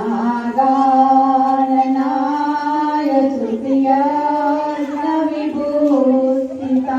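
A group of voices singing together in unison, holding long drawn-out notes that step slowly up and down in pitch.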